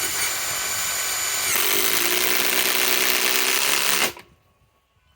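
Ryobi PSBIW25 compact cordless impact wrench driving a galvanized lag screw with no pilot hole, in one continuous run. About a second and a half in, the pitch drops and the sound turns harsher as the screw meets more resistance. It stops abruptly about four seconds in, with the screw driven.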